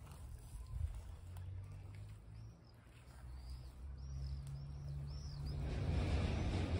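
Outdoor ambience: a bird gives a run of about five short high chirps in the middle, over a low steady hum. Near the end a louder rushing noise rises in.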